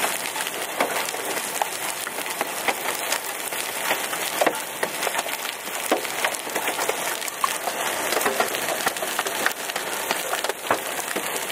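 Hailstones, some about quarter-size, hitting a car's roof and glass, heard from inside the car: a dense, steady patter of hard clicks with louder single strikes scattered through it.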